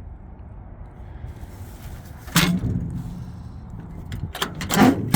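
Doors of a 1961 Ford being shut twice, two solid impacts about two and a half seconds apart, the second preceded by light clicks of the latch and handle.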